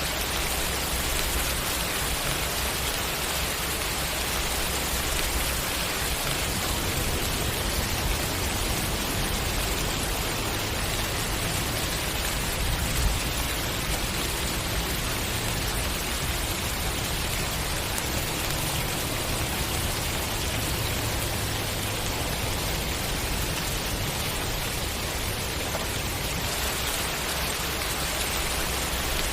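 Steady, even rainfall: rain falling on a surface in a constant hiss, with one small sharp drip or tap about thirteen seconds in.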